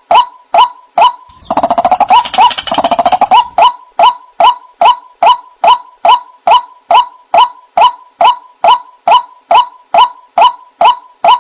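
White-breasted waterhen (ruak-ruak) calling: a short repeated note about twice a second, with a denser, louder stretch of overlapping calls about one and a half to three and a half seconds in.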